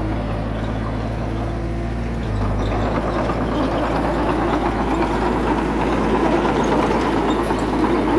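Heavy diesel engine of earthmoving machinery running steadily, getting louder from about three seconds in, when a rougher, noisier layer joins the low engine note.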